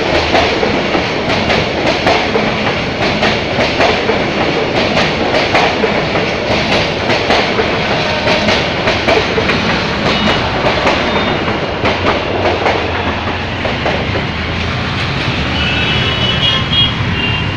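Passenger train coaches running past close at speed, wheels clattering steadily over the rail joints. Near the end high-pitched vehicle horns start up as the train clears the crossing.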